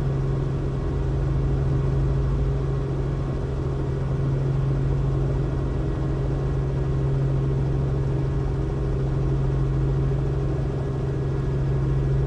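Robinson R44 helicopter's piston engine and rotors droning steadily in flight, heard from inside the cabin: a strong, even low hum with fainter steady tones above it.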